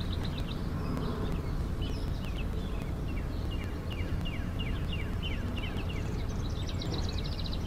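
Small birds chirping over and over, each call a short quick downward slide, over a steady low outdoor rumble.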